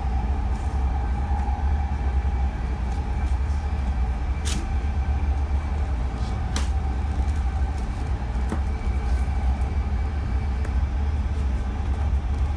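BART train running, a steady low rumble with a steady whine above it; two sharp clicks about two seconds apart near the middle, and a fainter one shortly after.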